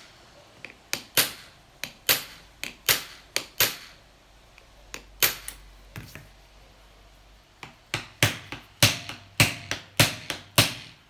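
About twenty sharp hammer blows on the seized engine of a 1984 Honda C70, struck in quick irregular runs with a pause in the middle, while working to free the stuck piston and crankshaft.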